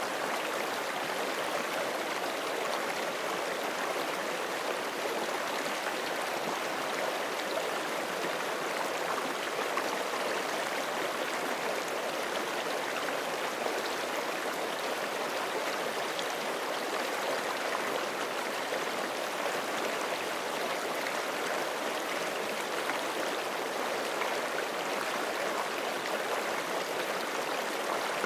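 Forest stream flowing steadily over rocks: a continuous, even rush of water.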